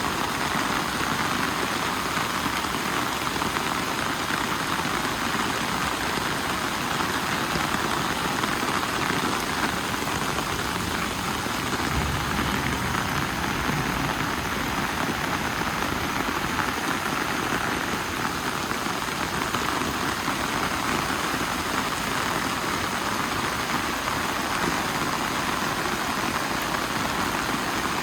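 Steady, fairly loud rain falling without a break.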